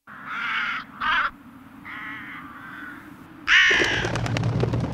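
A bird giving four harsh cawing calls, the last the loudest. About three and a half seconds in, a low rumbling drone with faint crackling sets in.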